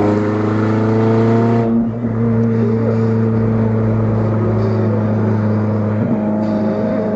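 Chevrolet Cobalt SS's supercharged four-cylinder engine running under way, loud and steady with a brief dip about two seconds in. It runs unmuffled because the exhaust has blown at the downpipe flange.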